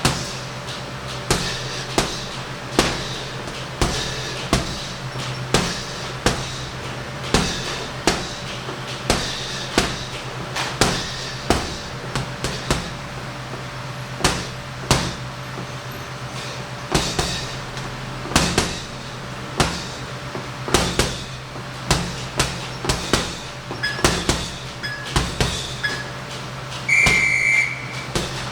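Punches landing on a heavy punching bag, thudding strikes at an uneven pace of about one to two a second, some in quick pairs. A steady low hum runs underneath, and a short high electronic beep sounds near the end.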